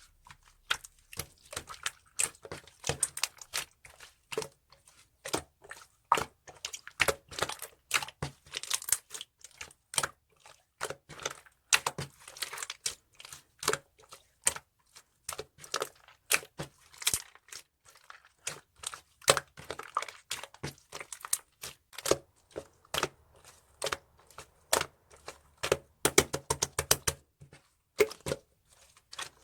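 Hands squishing, stretching and poking slime, making a dense, irregular run of sticky pops and crackles.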